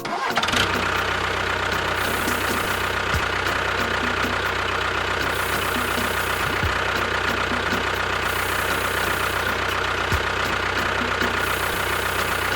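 A motor or engine running steadily at an even speed, with a deep hum and a fast, even knock. It cuts in suddenly at the start.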